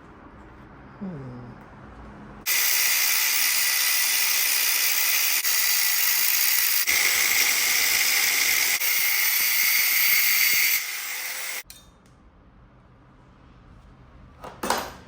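Steady hiss of a spray or compressed-air jet for about eight seconds, starting and stopping abruptly, with a briefer, softer stretch just before it cuts off. A short sharp sound comes near the end.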